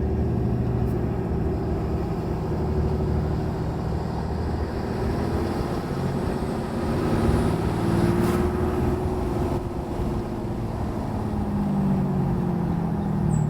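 Ram 2500's 6.7 L Cummins turbo-diesel inline-six on its stock air intake, heard from the cab with the windows down while driving, its pitch rising and falling as the load changes. A faint high whistle comes in around the middle.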